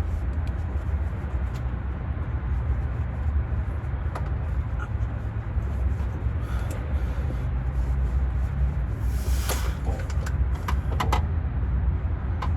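Hand tools working on a transmission's metal lines: scattered sharp metallic clicks, a short scrape about nine seconds in and a quick run of clicks just after, over a steady low rumble.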